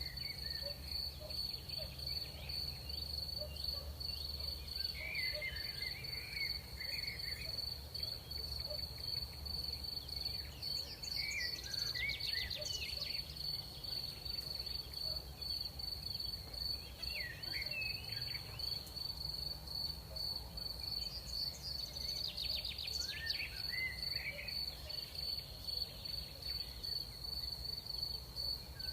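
Crickets trilling in one steady, high, unbroken note, with short scattered chirps coming and going beneath it and two brief runs of fast clicks near the middle and about three-quarters through. A steady low rumble of night air lies under it all.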